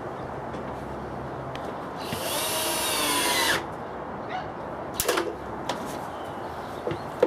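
A power drill runs for about a second and a half, its pitch shifting as it works, followed by several sharp clicks and knocks as tools and wood are handled.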